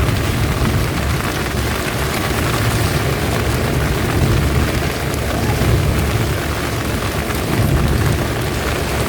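Heavy rain pouring down in a dense, steady hiss, over a continuous deep rumble.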